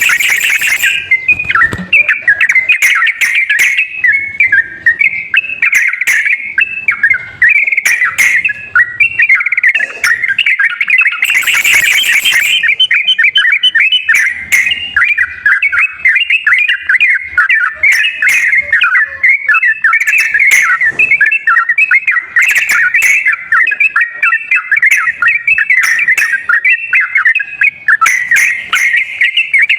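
Yellow-vented bulbul (trucukan) chattering and singing without pause in rapid, bubbly phrases. This is lure song meant to coax a reluctant caged trucukan into singing. A short rushing noise breaks in a little before halfway.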